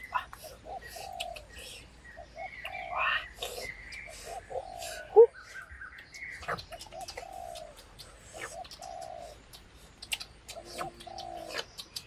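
Wild birds calling: short low notes repeated in runs, with higher chirps between them, and scattered clicks, the sharpest about five seconds in.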